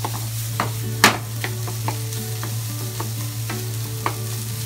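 Diced onion, luncheon meat and rice sizzling in a nonstick frying pan over high heat while a wooden spatula stirs through them, knocking and scraping against the pan at irregular moments, the loudest knock about a second in.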